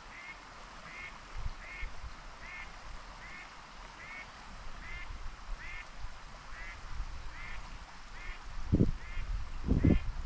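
A bird calling over and over, one short call roughly every three-quarters of a second. Two low thumps come near the end.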